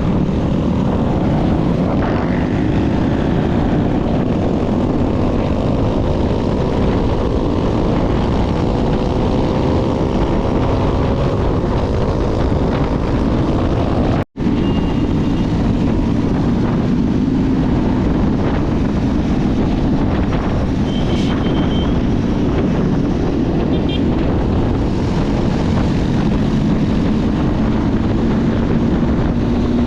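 Motorcycle engine running under way with heavy wind rush, its pitch rising steadily for several seconds as it speeds up. The sound cuts out for an instant about midway.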